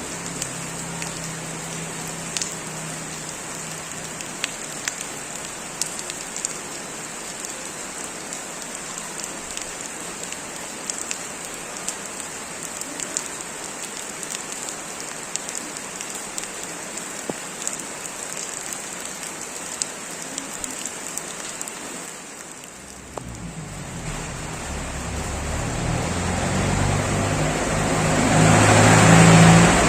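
Steady heavy rain falling, with scattered sharp drops hitting nearby surfaces. Near the end a motor vehicle's engine grows louder as it approaches.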